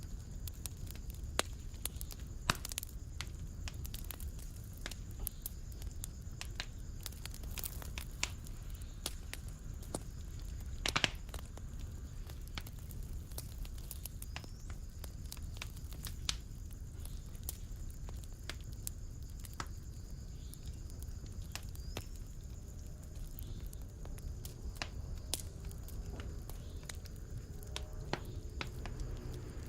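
Fire in a fireplace crackling, with irregular sharp pops over a low, steady rumble of flame; one louder pop about eleven seconds in.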